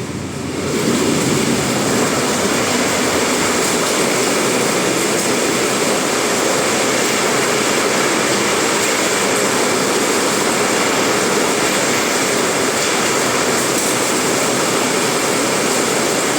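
Heavy rain pouring down, a loud steady rush that swells up about a second in and holds.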